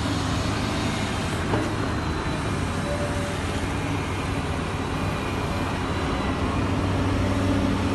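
FCY100 10-ton site dumper's engine running steadily, with a brief knock about a second and a half in, getting slightly louder near the end.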